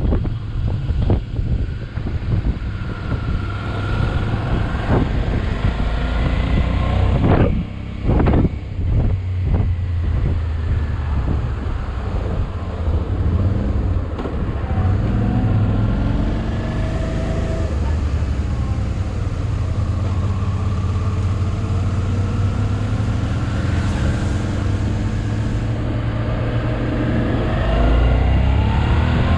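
Motorcycle engine running under way, its pitch shifting up and down with throttle and rising near the end, over a low rumble of wind buffeting the microphone.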